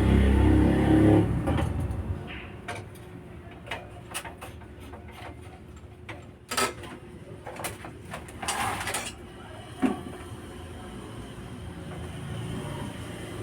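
A vehicle engine rumble fades away in the first second or two, then scattered clicks and knocks with one brief scrape, over a faint steady hum.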